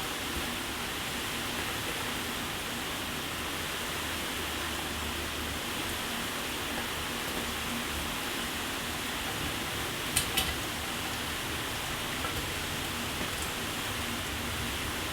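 Shower water running in a steady, even spray, with two sharp ticks close together about ten seconds in.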